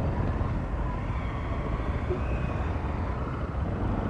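Steady rush of wind and road noise on a riding motorcycle, with its engine running underneath.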